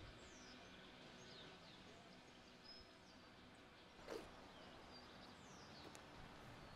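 Quiet outdoor ambience with faint, scattered bird chirps and a low background hum. A single brief soft knock or scuff about four seconds in.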